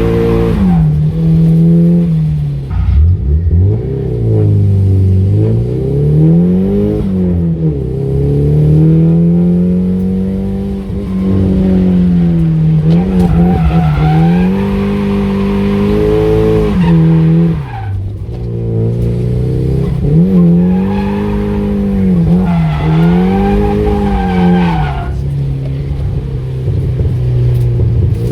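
Nissan S15 Silvia's turbocharged SR20DET four-cylinder revving up and down over and over through a drift run, with tyres squealing at times.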